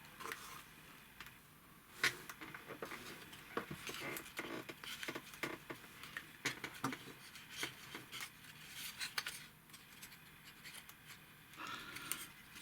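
Small wooden kit pieces clicking and knocking as they are handled and pushed together, with one sharper knock about two seconds in.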